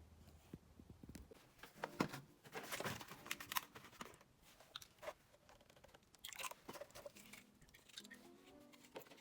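Irregular clicks, knocks and rustles of something being handled, with the loudest knocks around two to four seconds in. A low steady hum stops about a second in.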